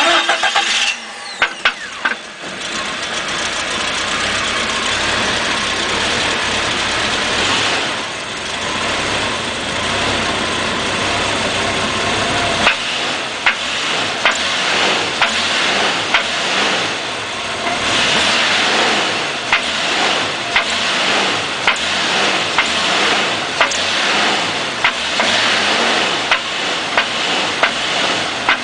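A Jeep 4.0 litre inline-six starts and runs. From about halfway through, the throttle is blipped repeatedly and a sharp knock stands out every second or two. The owner suspects piston slap or worn rod bearings.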